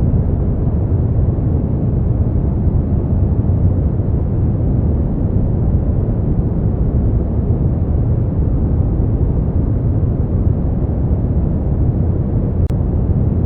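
Steady brown noise: a deep, even rumbling hiss with most of its weight in the low end and little above the midrange. A brief faint click with a momentary dip near the end.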